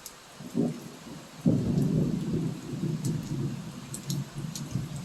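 Thunder over heavy rain: a short rumble about half a second in, then a sudden loud, deep rumble about a second and a half in that rolls on for several seconds, with the steady hiss of rain underneath.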